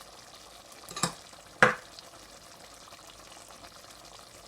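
Chicken in tomato sauce frying and bubbling softly in a pot, with two sharp knocks against the pot, about a second and a second and a half in.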